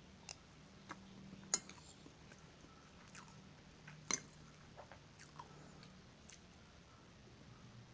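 Close-up chewing and mouth sounds of eating scrambled eggs and rice, with scattered short sharp clicks; the loudest come about a second and a half in and about four seconds in.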